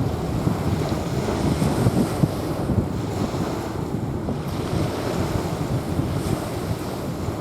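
Small waves washing onto a sandy beach, a steady rushing surf with wind rumbling on the microphone.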